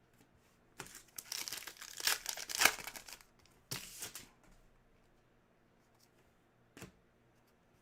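A Panini NBA Hoops Premium card pack's wrapper being torn open and crinkled by hand. There is a rustling burst of about two and a half seconds starting about a second in, a shorter one near four seconds, and a faint click near the end.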